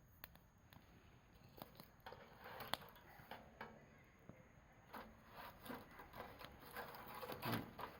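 Faint campfire crackling: scattered, irregular snaps and pops, getting busier after about two seconds, with a few short rustling bursts in the second half.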